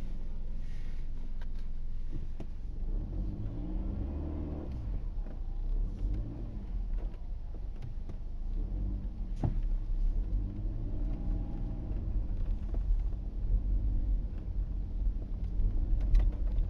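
Car engine heard from inside the cabin over a steady low road rumble, twice revving up and easing back off.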